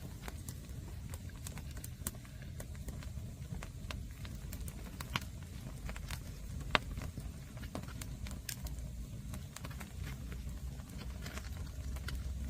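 Wood campfire crackling, with irregular sharp pops and snaps over a low steady rumble, and one loud pop a little past the middle.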